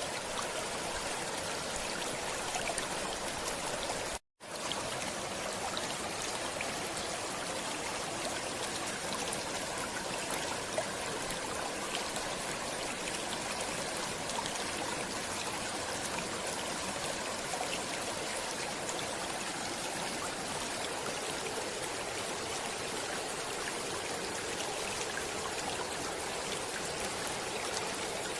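Water in a stream running steadily with a continuous rushing and trickling noise. The sound cuts out completely for a split second about four seconds in, then resumes unchanged.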